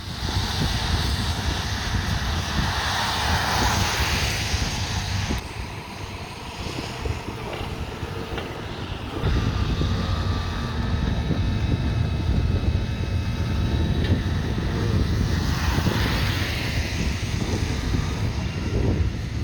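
Road traffic: vehicles driving past, one near the start and another about three quarters through, over a steady low rumble.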